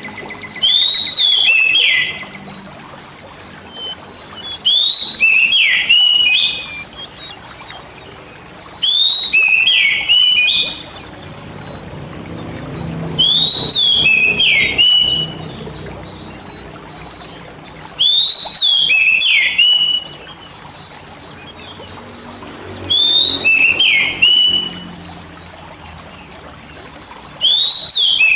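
Oriental magpie-robin (kacer) song: the same short phrase of quick, downward-sweeping whistled notes repeated about every four and a half seconds, over a steady background hiss.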